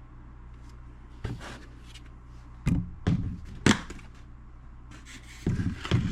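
Several sharp clicks and knocks of things being handled on a workbench, over a low steady hum.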